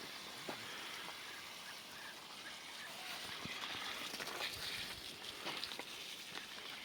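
Faint short animal calls and scattered clicks over a steady hiss of outdoor background noise.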